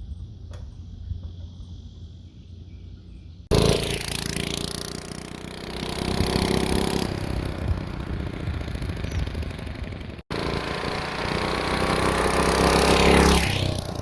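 Tecumseh HS40 4 hp two-stroke engine on a 1969 Lil Indian mini bike running as the bike is ridden past. It comes in suddenly about three and a half seconds in, swells and fades, breaks off for an instant about ten seconds in, then swells again near the end.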